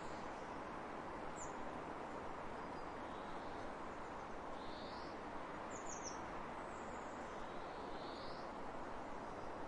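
Open-countryside ambience: a steady soft hiss of wind over the fields, with faint distant birds calling, a few short high chirps about a second and a half in and again around six seconds, and softer rising calls every few seconds.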